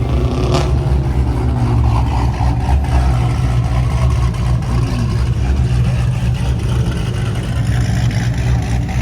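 A car engine running with a loud, steady deep rumble.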